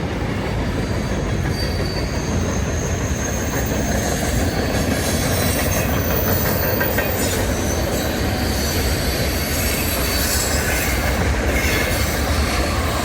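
Loaded freight cars rolling steadily past, steel wheels clicking over the rail joints, with a thin high wheel squeal coming and going.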